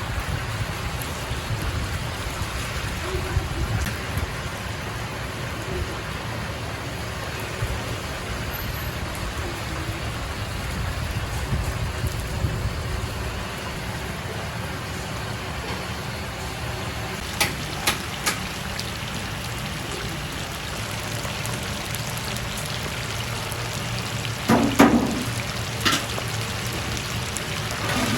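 Chicken pieces deep-frying in hot oil: a steady sizzle, with a few sharp knocks of utensils in the last third.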